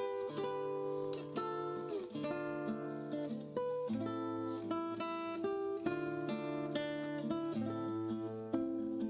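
Background music: acoustic guitar playing a plucked melody over held bass notes.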